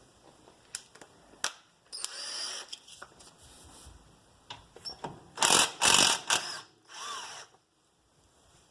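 Cordless power drill or driver running in three short bursts, the loudest about halfway through, backing out 10 mm bolts; the motor's pitch rises and falls as it spins up and stops.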